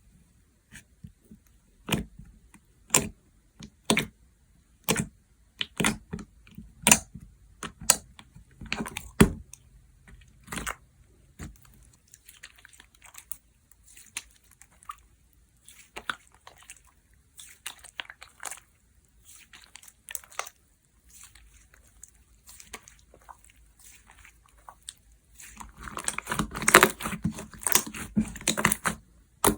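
Butter jiggly slime being pressed and stretched by hand: sharp pops about once a second at first, then softer scattered crackling, and a dense run of loud crackling and popping near the end.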